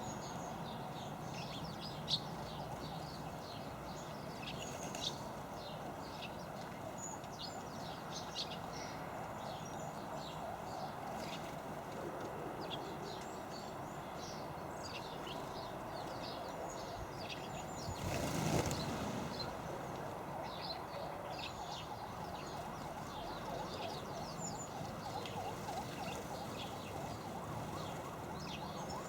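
Small garden birds chirping in many quick, short calls over a steady low background rumble. About two-thirds of the way through there is a brief louder rushing noise.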